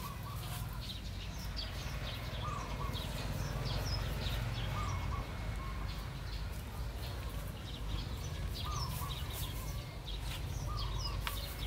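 Small birds chirping, short calls repeated again and again, over a steady low rumble.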